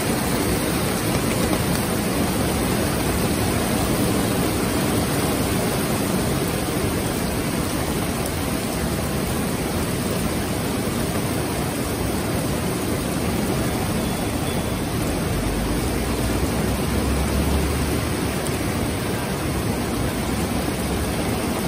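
Heavy rain pouring down steadily on a street and parked cars, a dense even hiss. A brief low rumble joins it about three quarters of the way through.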